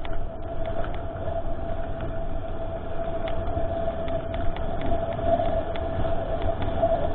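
Mountain bike riding down a trail: a steady high whine from the bike over the rough rumble of tyres and wind, with scattered clicks and rattles.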